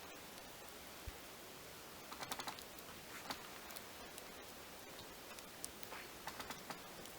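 Small, irregular clicks and taps in short clusters over a steady background hiss.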